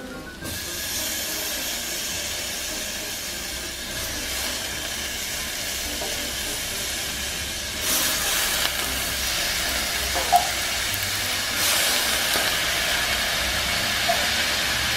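Pressure cooker venting steam with a steady loud hiss, which surges louder about halfway through and again a few seconds later.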